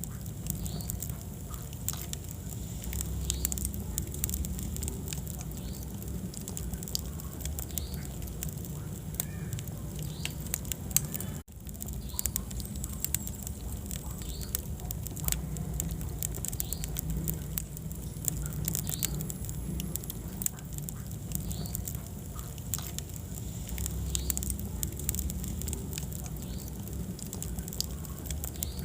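Wood fire burning in a fireplace: a steady low rumble of flames with frequent small crackles and pops, and now and then short high squeaks from the burning wood. About a third of the way through the sound cuts out for an instant after a sharp pop.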